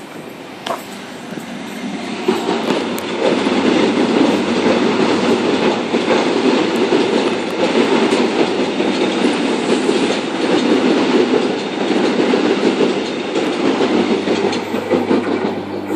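Sydney Trains Oscar (H-set) double-deck electric train passing close by, a dense rumble of wheels on rail. It builds up about two seconds in, stays loud while the carriages go by, and eases off near the end.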